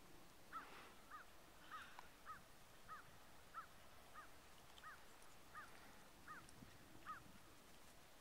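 A bird calling faintly: one short note that rises and falls, repeated about eleven times a little under a second apart.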